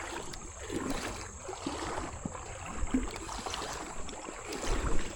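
Creek water moving around a kayak, with scattered small splashes and knocks against the hull.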